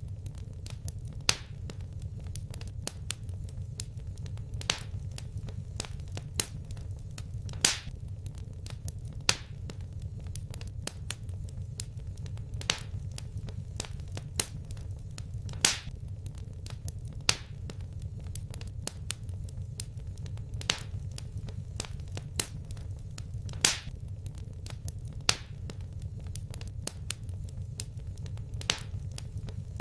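Wood fire crackling in a fireplace: irregular sharp pops and snaps, the loudest every second or two, over a steady low rumble.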